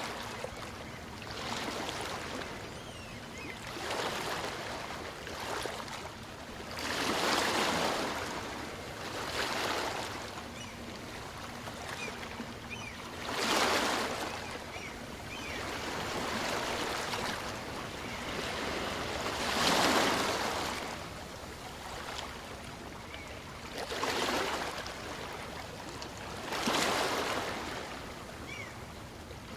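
Small waves on a calm sea breaking and washing up a beach, a surge of surf every few seconds that rises and drains away, with bigger breakers about every six seconds.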